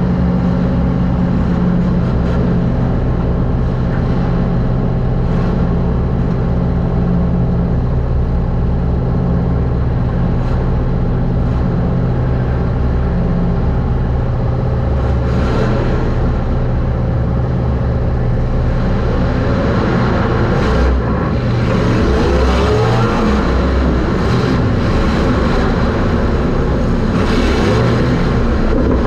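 Super stock race car's engine running hard at racing speed, heard from inside the car. The note holds steady for a long stretch, then rises and falls with lift-off and throttle in the later part.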